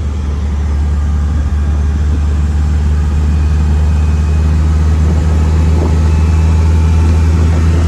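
1965 MGB's 1.8-litre four-cylinder engine and freshly finished exhaust droning steadily while driving, heard from inside the car, growing slightly louder partway through.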